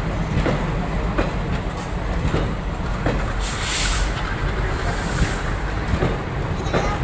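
Train running on rails, its wheels clicking over rail joints a little under twice a second over a steady low rumble, with a brief high hiss about three and a half seconds in.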